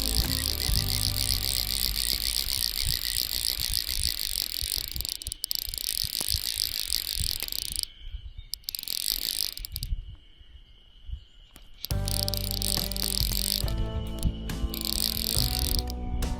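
Insects trilling steadily with a fine, fast pulse, over background music; the trill cuts out for a few seconds past the middle.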